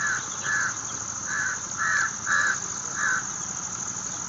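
A bird gives six short, harsh calls, a little over half a second apart. A steady high drone of insects runs underneath.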